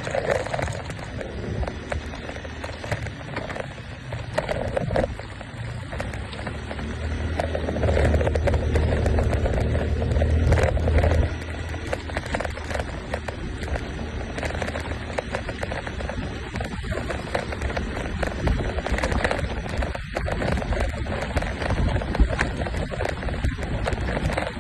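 Small motorbike engine running under way. It grows louder from about eight seconds in and drops back suddenly about eleven seconds in.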